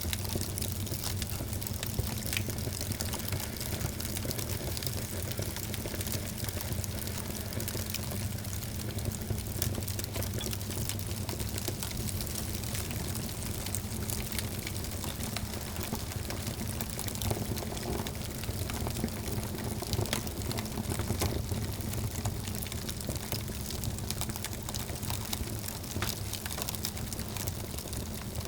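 Wood fire burning in a fireplace: a steady low rushing of flames with frequent small sharp crackles and pops.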